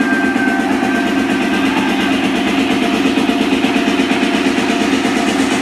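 Industrial techno breakdown with the kick drum and bass cut out, leaving a dense, steady noisy drone and a thin high held tone that fades about two seconds in.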